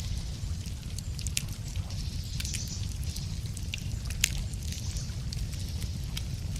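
Wood fire crackling, with irregular sharp pops; the loudest comes about four seconds in. A steady low rumble runs underneath.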